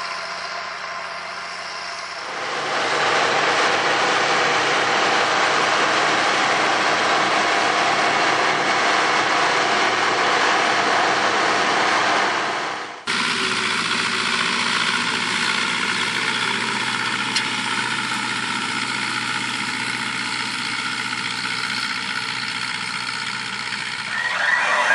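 Machine engines running steadily, in two separate recordings: the first gets louder about two seconds in, and about halfway through it cuts abruptly to a second engine running steadily.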